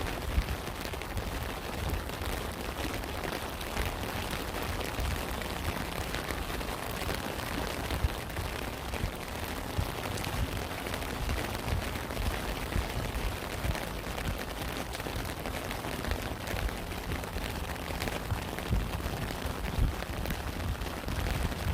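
Steady rain falling: an even hiss with a low rumble underneath and a few louder single drop impacts.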